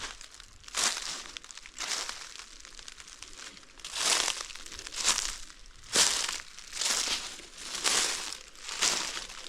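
Footsteps crunching through dry fallen leaves and forest debris at a steady walking pace, about one step a second.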